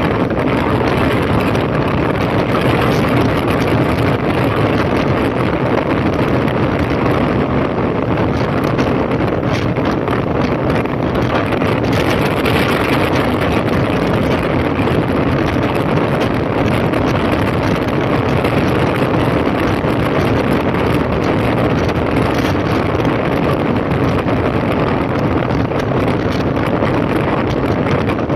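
Heavy wind rush over the microphone of a moving motorcycle, with a 2005 Honda CB1300's inline-four engine droning steadily underneath at an even, unchanging pace.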